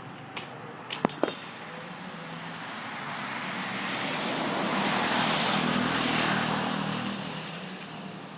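A motor vehicle passing by: its engine and tyre noise swells to a peak about six seconds in, then fades away. Two sharp clicks come about a second in.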